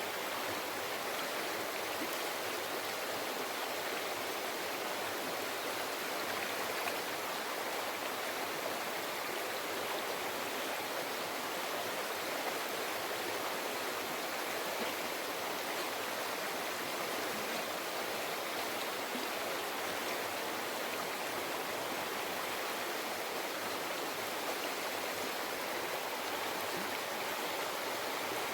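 River water flowing and babbling over rocks, a steady rushing.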